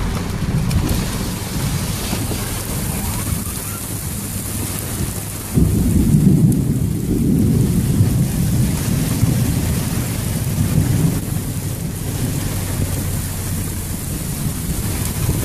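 Rain falling steadily, with a roll of thunder that starts suddenly about five and a half seconds in and rumbles on for several seconds.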